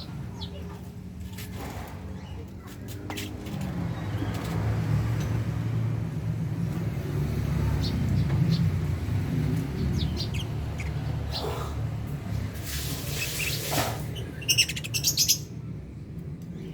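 Lovebirds in a colony cage chirping in scattered short calls, with a rustle like fluttering wings and then a burst of loud, shrill calls near the end.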